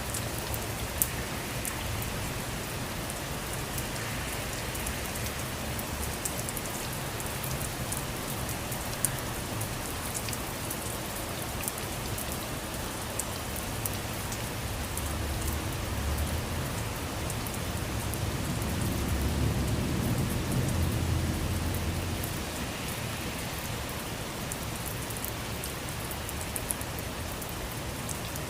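Steady rain falling on surfaces, with many distinct sharp drop ticks. A low rumble swells through the middle and peaks about two-thirds of the way in, then eases off.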